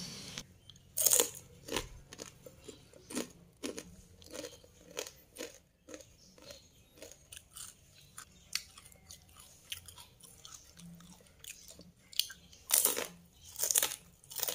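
Crispy fried peanut peyek (rice-flour cracker) being bitten and chewed: a loud crunch about a second in, then many small irregular crunches, with a louder cluster of crunches near the end.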